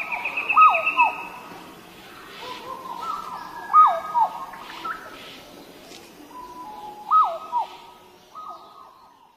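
Birds calling in a nature ambience. Short whistled notes with quick downward hooks come in clusters a few seconds apart, over a faint background hiss, and fade out near the end.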